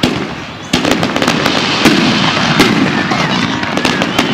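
Fireworks going off in quick succession: a dense string of sharp bangs and pops, about a dozen, the loudest a little under two seconds in.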